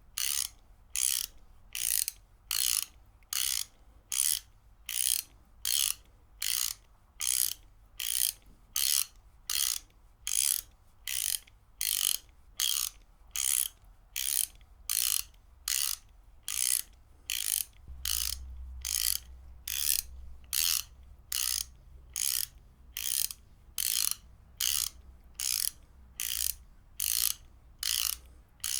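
Ratchet wrench clicking in short, evenly spaced bursts, a little under two a second, in a steady rhythm.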